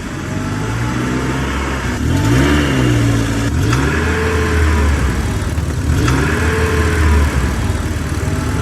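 A vehicle engine revving up and easing off over and over in a regular cycle, about every two seconds, over a steady low hum.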